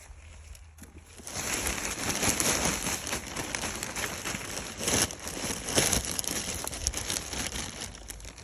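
Bag of tree fertilizer being opened and handled: a continuous crinkling, rustling noise full of small crackles, starting about a second in.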